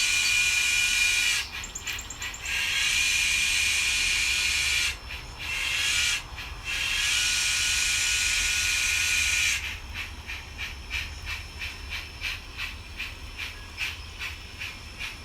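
Sound system of a model 2-8-0 steam locomotive: several long hisses of steam with short gaps, then from about ten seconds in a steady run of soft chuffs, about two a second, as the engine works slowly.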